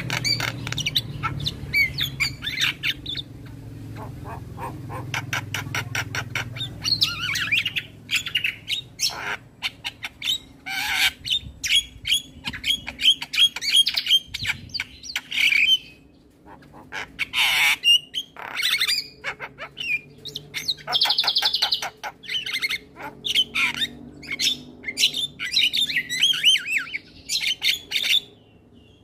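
Male Javan myna singing a long, varied song: fast runs of clicks, harsh chattering and squawks, and short whistled phrases, with a brief pause about halfway through.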